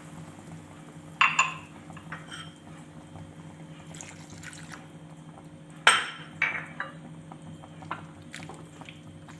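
Water poured from a cup into a pan of cooking masala, with a few sharp clinks of cup or utensil against the pan; the loudest comes about six seconds in. A faint steady hum sits underneath.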